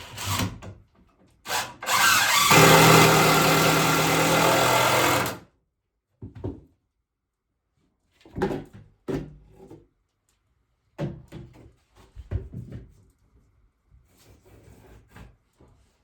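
Power drill running for about three and a half seconds, probably driving a screw into wood, with a steady motor whine. It is followed by several short knocks and clatters of wood and tools being handled.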